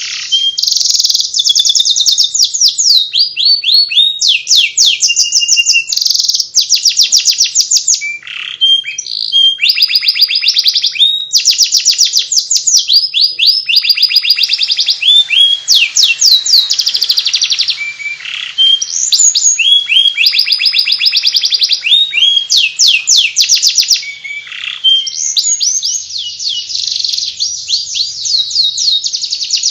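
Domestic canary singing in the 'ngeriwik' style: a long, loud song of fast trills and rapidly repeated sweeping notes, broken only by a few short pauses.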